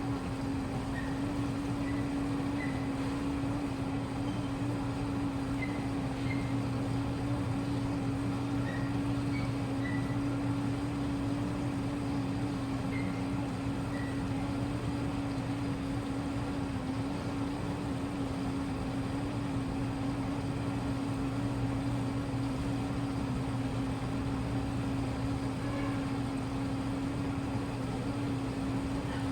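Washing machine running with a steady, unchanging motor hum. A few faint short high chirps sound in the first half.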